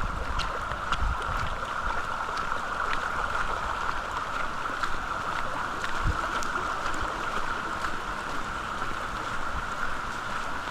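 Steady rain with a constant hiss and scattered ticks of individual drops striking nearby surfaces. Wind buffets the microphone with low gusts at the start and again about six seconds in.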